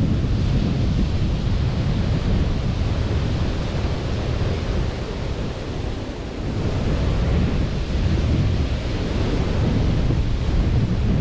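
Surf washing onto a beach in a steady, continuous rush, mixed with wind rumbling on the microphone. The wash eases slightly about halfway through, then builds again.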